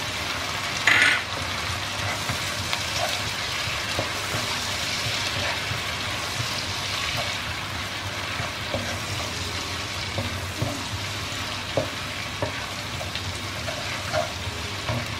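Chopped onions and ginger-garlic paste sizzling steadily in hot oil in a pan while being stirred with a wooden spatula, with light scraping ticks and a brief louder burst about a second in. The paste is being fried to cook off its raw smell.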